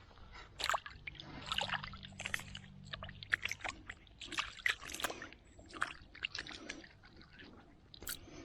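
Irregular splashes and sloshing of river water, many short splashes in quick uneven succession.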